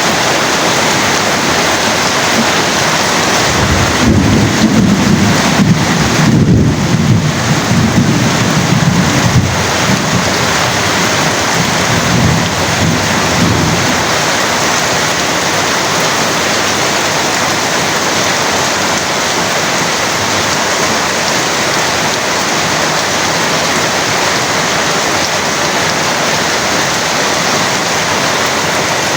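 Heavy rain pouring steadily. A few seconds in, a long low rumble of thunder rolls for about ten seconds and fades.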